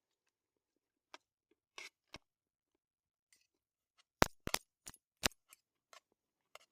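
Scattered sharp clicks and taps, with a quick run of louder ones about four to five seconds in.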